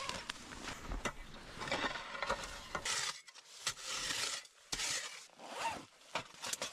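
Snow being scraped and packed against the bottom edges of a hot tent, in a series of short, irregular scrapes and crunches.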